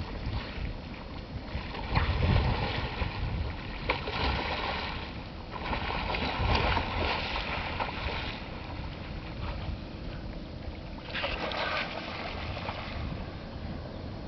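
Water splashing and sloshing around a kayak in several second-long surges, with wind buffeting the microphone.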